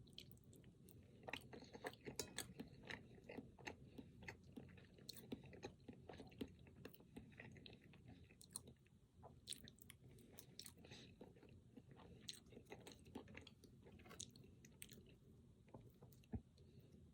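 Quiet, close-miked chewing of a Pingüino, a chocolate-coated snack cake with cream filling: a steady run of soft wet mouth clicks and smacks.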